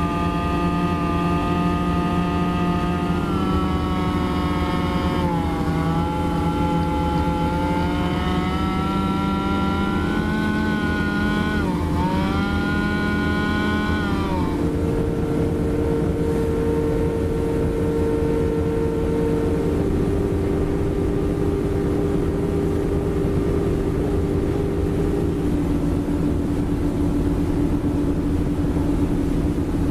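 Motorboat engine running, its pitch rising and falling with the throttle for about the first half, then settling into a steadier drone.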